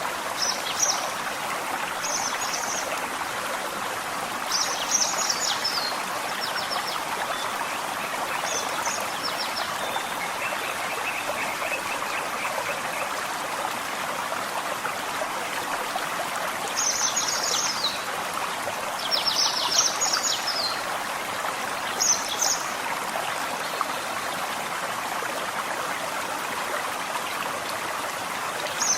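Gentle forest stream running steadily, with a songbird singing short, high phrases on and off: several in the first few seconds, then a pause, then more around two-thirds of the way through.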